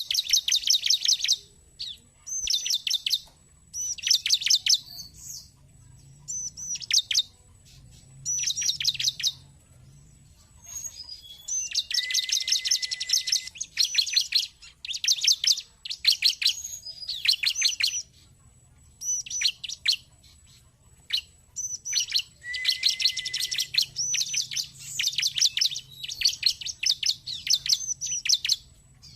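Bar-winged prinia (ciblek) calling: short bursts of rapid, sharp chirps repeated every second or two, with two longer, denser trills partway through.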